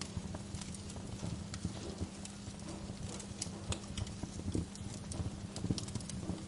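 Wood fire in a fireplace crackling, with irregular sharp pops and snaps over a soft steady hiss and a low steady hum.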